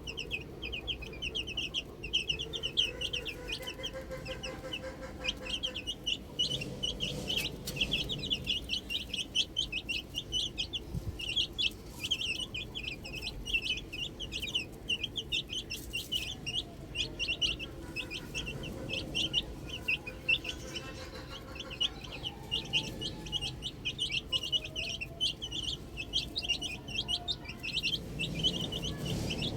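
A group of baby chicks peeping nonstop: many short, high-pitched peeps overlapping several times a second.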